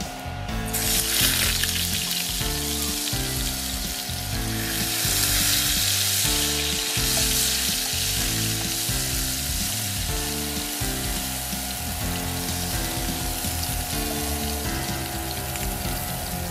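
Minced garlic deep-frying in hot oil in a frying pan: a dense, steady sizzle that starts suddenly about a second in as the garlic hits the oil.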